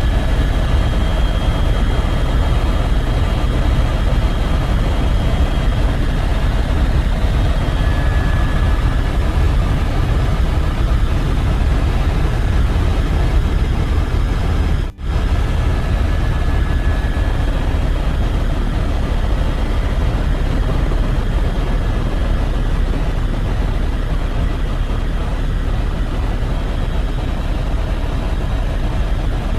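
Helicopter engine and rotor noise, loud and steady, dropping out for an instant about halfway through.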